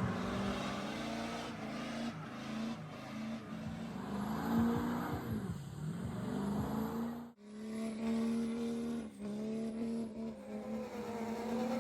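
Truck engines running steadily. The pitch sags and climbs back about halfway through, the sound breaks off abruptly, and then an engine revs up near the end.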